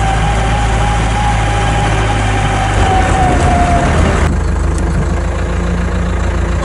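Heavy diesel engine of a construction machine running with a high steady whine over it. The whine fades just before four seconds in, and the engine note drops soon after as the revs come down.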